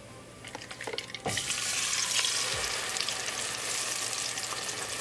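A few faint ticks from cumin and carom seeds in hot olive oil, then, just over a second in, a wet tomato, green chili and garlic paste hits the hot oil and sizzles loudly and steadily.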